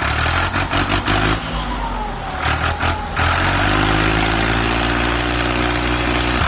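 A vehicle engine runs steadily, then revs up slightly about three seconds in, with a hiss above it. A falling whine sounds in the first half, and a short clatter of clicks comes about halfway through.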